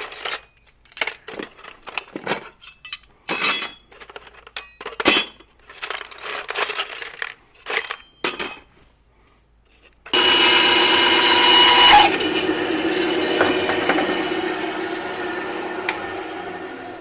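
Small metal hardware such as brackets and screws clicking and clinking as it is handled. About ten seconds in, a power tool's motor starts suddenly and runs loudly, then fades slowly over the last few seconds.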